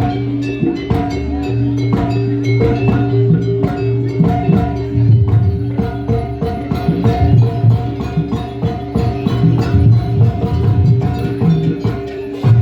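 Live jaranan accompaniment from a Javanese gamelan-style ensemble: fast drum and struck-metal percussion over sustained held tones.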